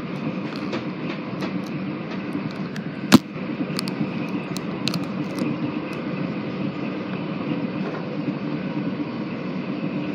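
Passenger train running, heard from inside the carriage: a steady rumble with scattered light clicks, and one sharp knock about three seconds in.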